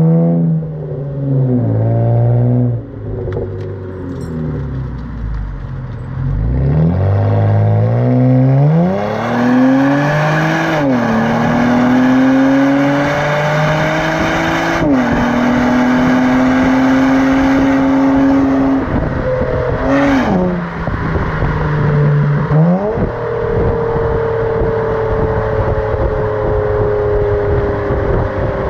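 2007 Acura TL Type-S 3.5-litre V6 running through a custom exhaust on the move. The engine note climbs under acceleration and drops sharply at gear changes several times, then settles into a steady, slowly falling drone.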